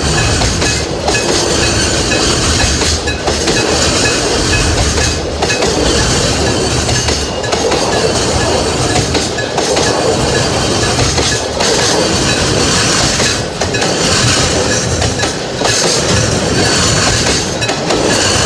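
Freight train wagons rolling past on the Nagoya Rinkai Railway, wheels clicking over the rail joints, with a regular break in the sound about every two seconds as each wagon goes by.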